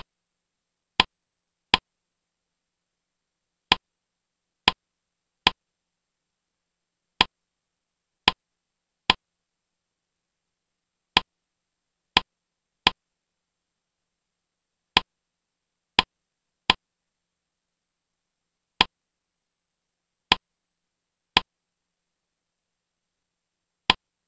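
About eighteen single sharp clicks at irregular intervals, usually one to two seconds apart, with dead silence between them. These are the clicks that step a slideshow's animations forward one item at a time.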